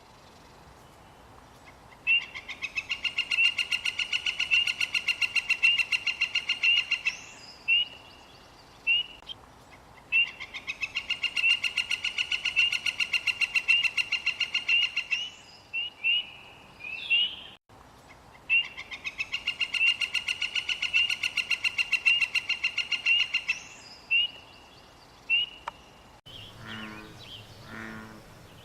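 Northern flicker giving its long call: three runs of rapid, evenly repeated notes, each about five seconds long, with single short calls between them. Near the end a low, pulsing croaking begins.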